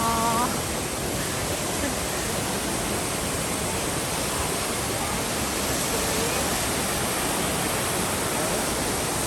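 Düden waterfall pouring: a steady, dense rush of falling water that does not change.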